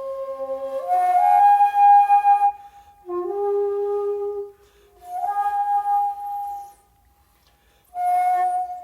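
Solo shakuhachi playing slow, long-held notes, some sliding up into pitch, with a rush of breath as each note begins. There is a pause of about a second before one last note near the end.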